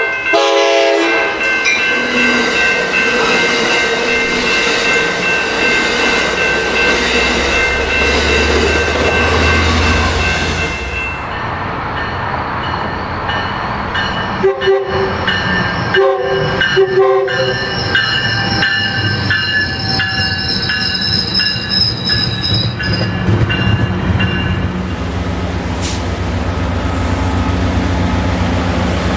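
A train passing close by with its horn sounding at the start, over the rumble of the cars and a high, steady squeal from the wheels. A few short tones sound in the middle, and the wheel squeal returns in the latter part over a low rumble.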